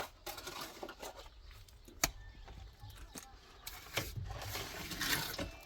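Scattered light knocks and clicks, with a stretch of scraping about four seconds in.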